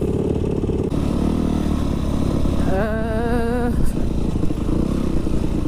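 Dirt bike engine running while riding, its note shifting about a second in, with a brief wavering pitched sound about three seconds in.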